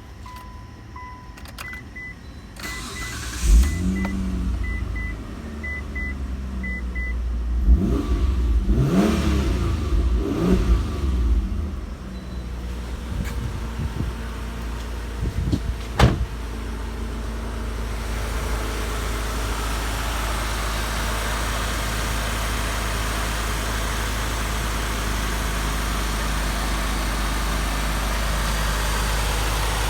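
Mitsubishi Eclipse Spyder started from cold after sitting for years: dash chimes beep in the first few seconds, then the engine cranks and catches about three and a half seconds in. The revs rise and fall a few times before it settles into a steady idle, with one sharp click about halfway through.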